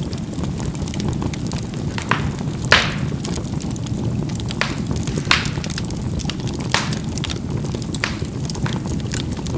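Charcoal burning in a fireplace: a steady low rumble of the fire with scattered sharp pops and crackles as the charcoal bursts, the loudest a little under three seconds in.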